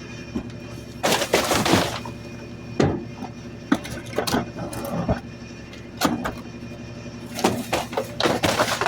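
Garbage truck running steadily, with two loud bursts of rattling noise and several sharp knocks and thunks in between.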